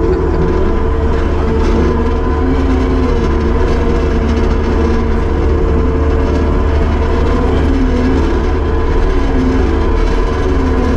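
Kubota SVL75-2 compact track loader's diesel engine running steadily while working, with a whine whose pitch rises and falls as the hydraulics are worked.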